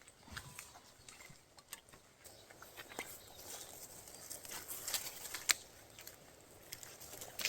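Footsteps and rustling through forest undergrowth: irregular crackles and twig snaps, busiest in the middle, with one sharp snap about five and a half seconds in.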